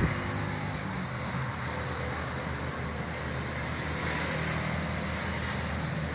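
A steady machine hum with a low drone under an even hiss, typical of a MAG welding machine running.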